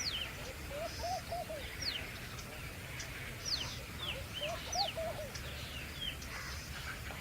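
Wild birds calling: repeated sharp, steeply falling whistles, and twice a short run of lower rising-and-falling notes, over a steady low rumble.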